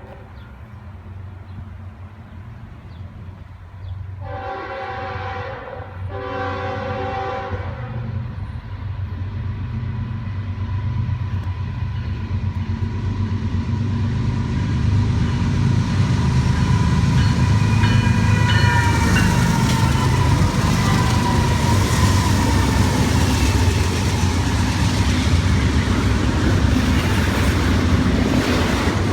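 BNSF diesel freight locomotives sounding two horn blasts, a shorter one then a longer one, as they approach. The engine rumble then grows louder as the double-stack train passes, with steady wheel-on-rail noise.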